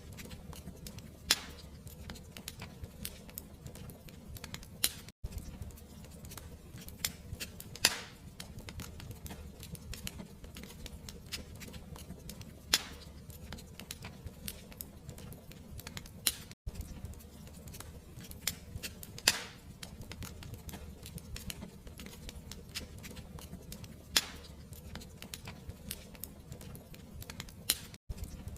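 Fireplace fire crackling steadily over a low rumble, with a sharper, louder pop every few seconds. The sound cuts out for an instant three times, about eleven seconds apart.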